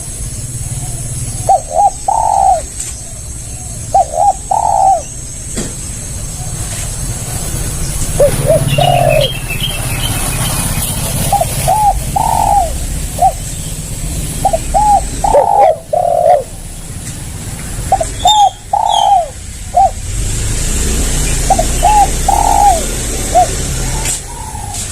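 Spotted dove (tekukur) cooing: short phrases of three or four notes, repeated every few seconds, over a low rumble.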